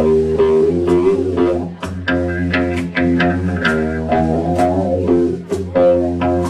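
A rock band playing: electric guitar and bass guitar over drums, with notes changing in a steady rhythm.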